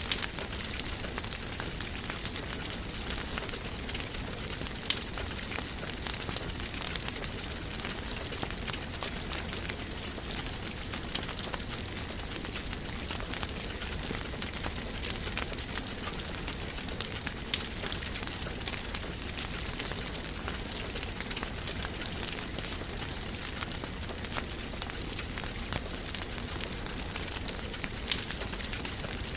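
Wood fire crackling in a fireplace: a steady hiss of flames with constant small crackles and a few sharper pops scattered through.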